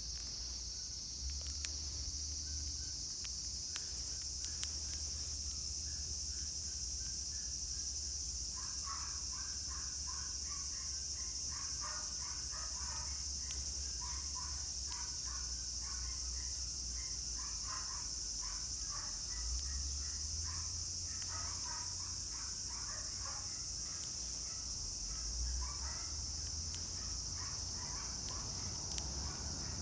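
A steady, high-pitched chorus of insects runs throughout. From about nine seconds in, many short bird chirps come over it, along with a low rumble.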